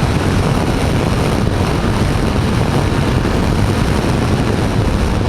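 BMW G310GS single-cylinder motorcycle being ridden on the highway: a steady rush of wind and engine noise.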